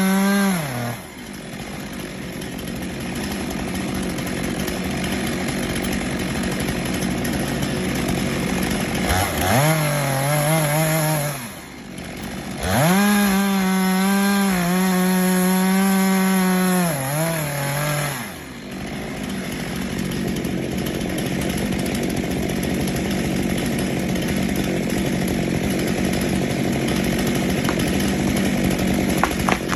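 Two-stroke chainsaw running, revved hard to a high steady whine in bursts near the start, about ten seconds in and again from about thirteen to eighteen seconds. The pitch sags and falls off as the throttle is released, and the saw runs lower and rougher in between.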